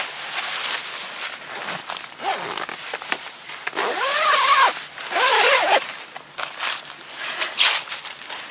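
Rustling and handling noises with scattered clicks, and two short creaking squeals that rise and fall in pitch, about four and five and a half seconds in.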